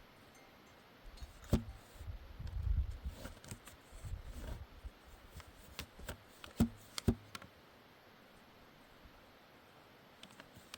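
Scattered knocks and rustling handling sounds over a low rumble. The sharpest knocks come about a second and a half in and twice around six to seven seconds in, and it goes quiet over the last few seconds.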